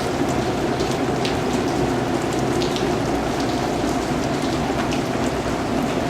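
Steady rain falling, a dense even patter with scattered individual drops ticking on a surface.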